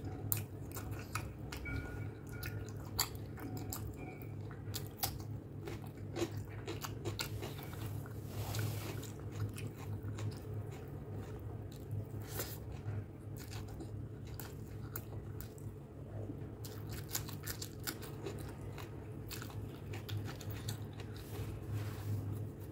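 Close-miked chewing of curry and rice eaten by hand: wet mouth sounds with many short smacks and clicks and occasional crunches. A steady low hum runs underneath.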